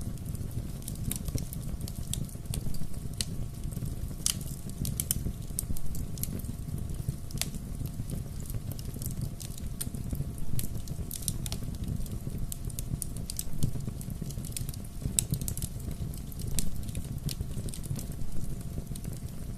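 Wood bonfire burning: a steady low rumble of flames with frequent irregular crackles and sharp pops from the burning wood.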